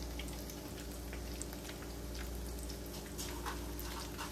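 Breaded mashed-potato balls frying in shallow oil in a skillet: a steady sizzle with scattered small crackles and pops.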